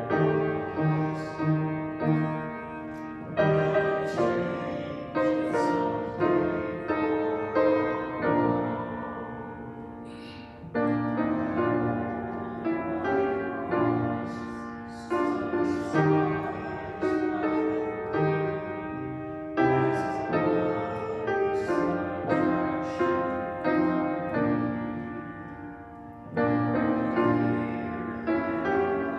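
Piano playing a slow hymn tune in chords, each struck note ringing and fading.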